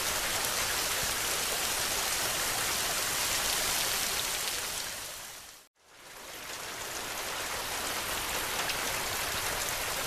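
Steady, dense hiss of heavy rain, with faint scattered pops of a crackling wood fire. A little past halfway it fades out to a moment of silence and then fades back in.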